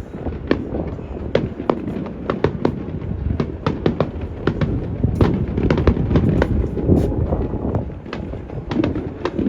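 Aerial fireworks bursting in rapid succession, a dense run of sharp cracks and pops several times a second, over a steady low rumble of wind buffeting the microphone.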